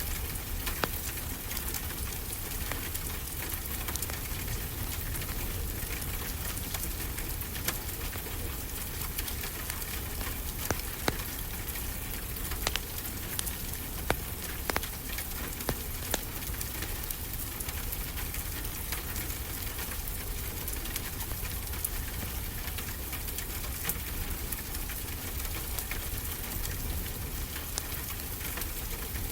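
Wood fire crackling with scattered sharp pops over a steady, even hiss of ocean waves.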